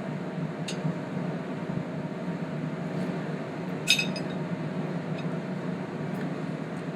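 Three light clinks of dishware, the loudest about four seconds in, over a steady background hum.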